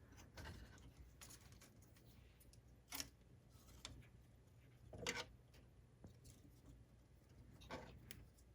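Near silence broken by three faint, brief rubbing and ticking handling sounds, about two to three seconds apart, as a part is wiped clean by hand.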